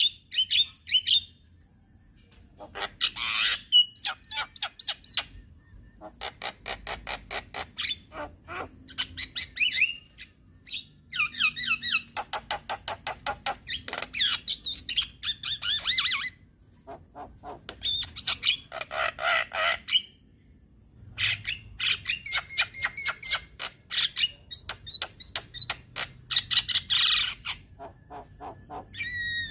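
Javan myna (jalak kebo) in full song: fast runs of harsh clicking chatter mixed with squawks and short whistled notes, coming in bursts several seconds long with brief pauses between them.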